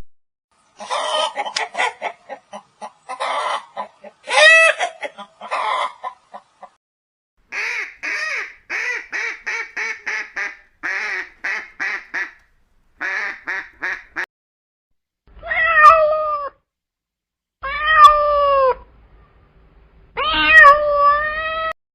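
Cats meowing: a cluster of meows, then a fast run of short high calls about three a second, and finally three long, drawn-out meows, each rising and falling in pitch.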